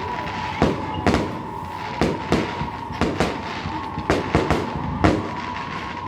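Fireworks going off: an irregular run of about a dozen sharp bangs over six seconds, some in quick pairs, with a steady high tone running underneath.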